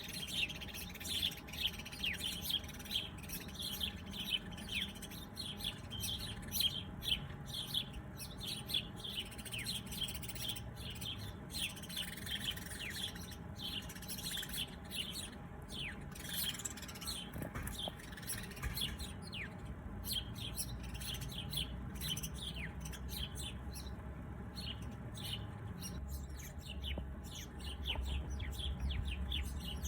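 Small birds chirping: a dense run of short, quick, high chirps that thins out after the middle, with a low rumble coming up near the end.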